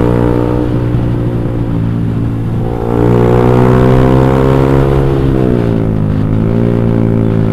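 Motorcycle engine running through an X1 Speed aftermarket exhaust while riding, loud and steady; the engine pitch rises about three seconds in as the throttle opens, then falls back a couple of seconds later.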